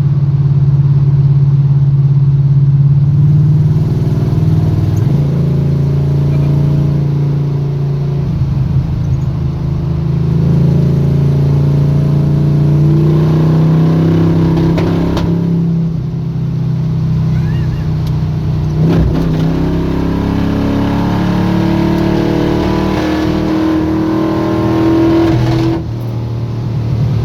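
Squarebody Chevy drag truck's engine pulling hard under acceleration, its pitch climbing and then dropping back sharply with a gear change about two-thirds of the way in and again near the end.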